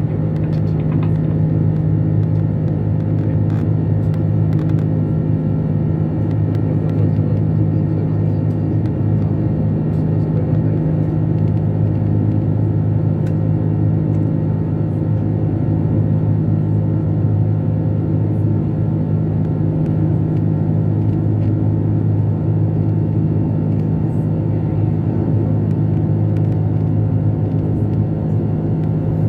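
Steady, loud rumble of an Airbus A330's Rolls-Royce Trent 700 engines and airflow, heard inside the passenger cabin, holding an even pitch throughout.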